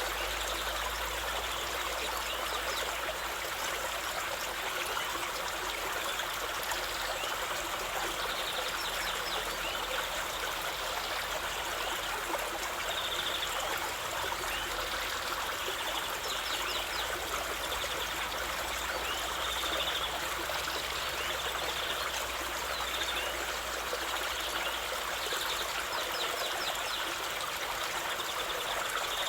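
A stream of water flowing and trickling steadily, with faint high chirps now and then.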